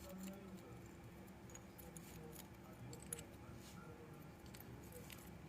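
Faint, scattered light clicks and taps, with one sharper click about three seconds in, over a low steady hum.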